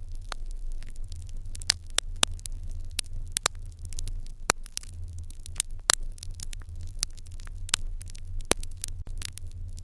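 Fire in an irori hearth crackling, with frequent irregular sharp pops over a steady low rumble.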